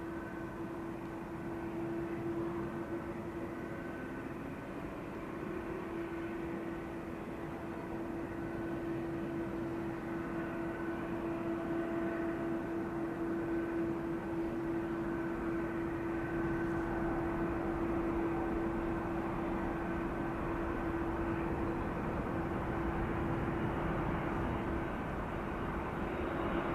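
Rolls-Royce Trent XWB jet engines of a Japan Airlines Airbus A350-941 running, a steady noise with one held tone, slowly growing louder.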